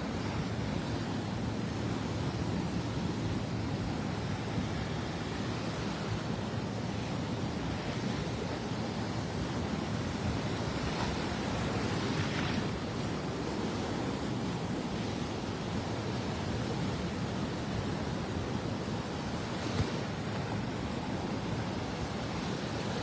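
Gulf surf breaking on a sandy beach: a steady wash of waves, swelling slightly about halfway through.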